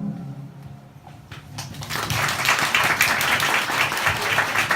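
The last a cappella chord dies away, then audience applause builds up from about a second and a half in and carries on steadily.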